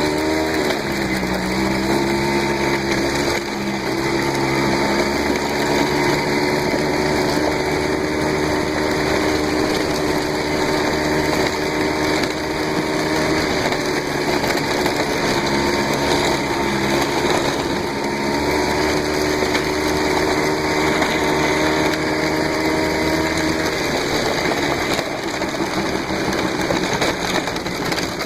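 Small engine of an off-road motorcycle or four-wheeler running at a fairly steady speed. Its pitch dips briefly about half a second in and turns rougher near the end.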